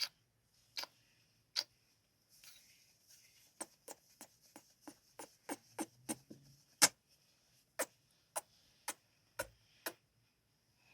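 Close-up ASMR kissing sounds: a string of short, sharp kiss smacks into the microphone, irregularly spaced. There are a few at first, then a quicker run of about three a second in the middle, then they slow again.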